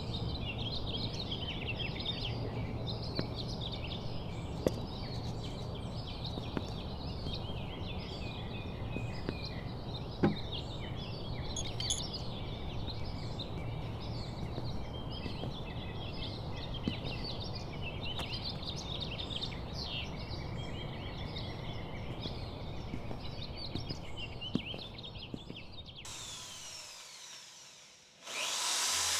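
Many small birds chirping continuously over a steady low background noise, with a few light clicks. The chirping stops near the end and the background fades away.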